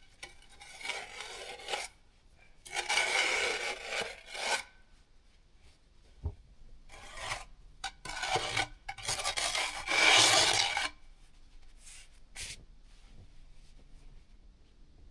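Snowshoe steps crunching and scraping through snow in irregular bursts of a second or two, the loudest about three and ten seconds in.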